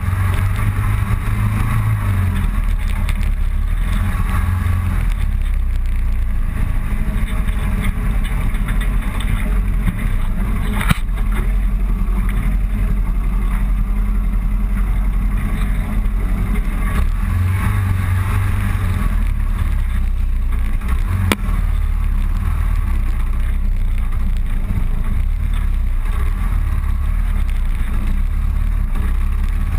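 Motorcycle running steadily on the road, with heavy wind rumble on the microphone. Two brief knocks are heard, about eleven seconds in and again about twenty-one seconds in.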